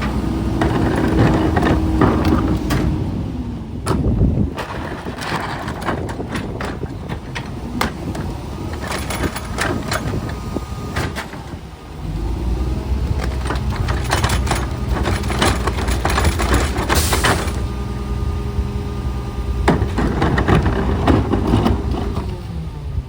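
Garbage truck at work: the engine runs under clanks and knocks of metal. There is a steady whine for the first few seconds, and about twelve seconds in the engine picks up into a louder, fuller hum.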